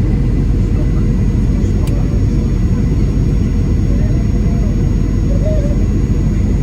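Steady rumble of engine and airflow noise heard inside the cabin of a Boeing 737-800 airliner, with a faint steady hum above it.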